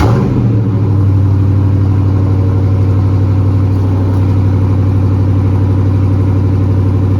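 2020 Dodge Challenger R/T's 5.7-litre HEMI V8 starting up, flaring briefly, then settling into a steady idle through its stock factory cat-back exhaust with the mid muffler still in place.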